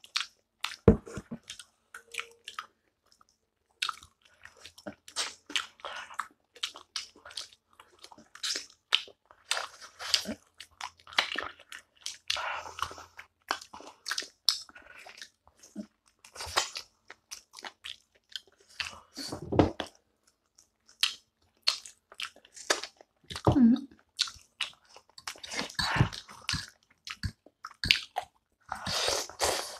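People eating spicy chicken feet and instant ramen: irregular wet chewing, biting and crunching clicks, with a noodle slurp near the end.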